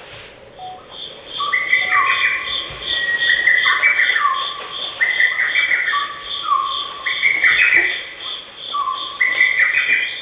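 Electronic chirping tune played from a device: a short stepped figure that rises and falls repeats about every second and a half over a steady high tone and quick even pips.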